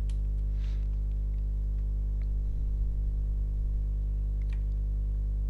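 Steady mains hum: a low electrical buzz with many overtones that does not change, with a few faint ticks over it.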